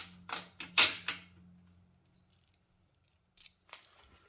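Metal bolts and nuts clinking and knocking as they are handled: a cluster of sharp clicks in the first second, then a pause, then a few more clicks near the end.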